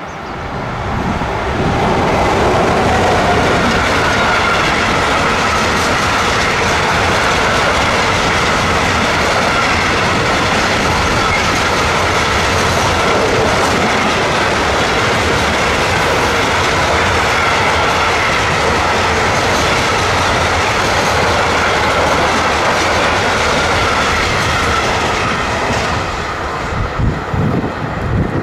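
A freight train of empty stanchion flat wagons, hauled by an electric locomotive, passing close by. Its wheels rumble and clatter on the rails loudly and steadily, building about a second in and turning uneven near the end as the last wagons go by.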